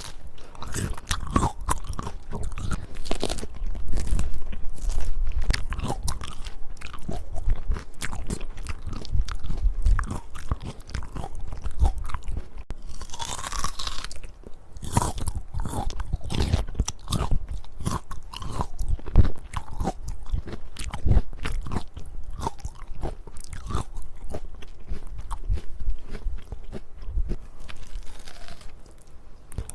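Close-miked biting and chewing of crisp peach: dense, irregular crunching throughout, with a brief hiss about halfway through.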